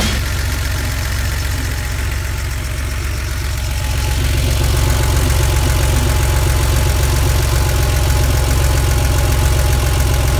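The air-cooled 3.2-litre flat-six of a 1987 Porsche 911 Carrera idling steadily. It gets somewhat louder from about four seconds in, when it is heard from beneath the car close to the exhaust.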